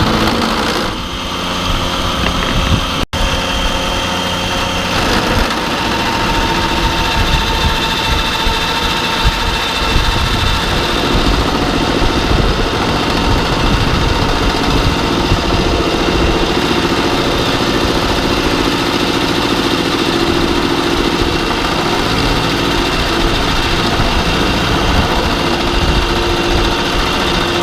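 Machine tool taking a cutting pass on a steel workpiece: a steady motor and spindle hum with the cut's noise on top, changing in tone a few times as the cut goes on.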